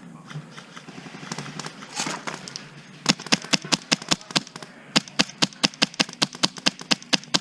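Airsoft guns firing a quick string of single shots, about five a second, starting about three seconds in, with a short break partway through.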